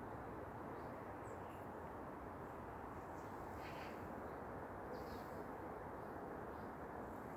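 Faint, steady outdoor background noise in a winter forest, with a few brief, faint high-pitched sounds here and there.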